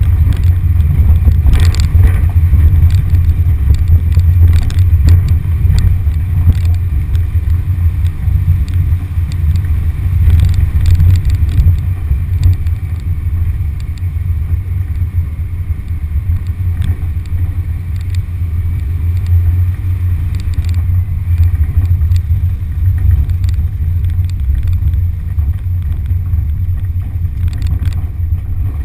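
A 1974 VW Beetle's 1600cc air-cooled flat-four engine running with a steady low drone as the car is driven along a rutted mud track, with scattered knocks and rattles as it jolts over the ruts.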